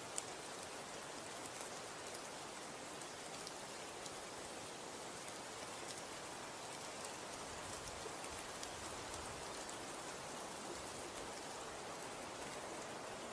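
Falling snow pattering steadily, an even hiss of many fine ticks, with one sharper tick right at the start.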